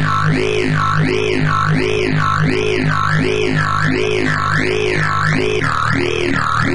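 Dubstep growl bass patch on the Razor synthesizer (Reaktor 5): a held low bass note whose tone sweeps up and down about twice a second in an even, talking wobble.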